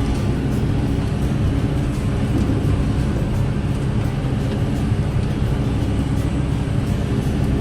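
Tractor engine running steadily under load while mowing hay, a constant low drone.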